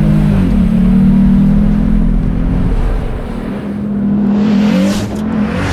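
Vehicle engine running loud under load, its pitch stepping up and down as it revs, ending in a rising rush of noise.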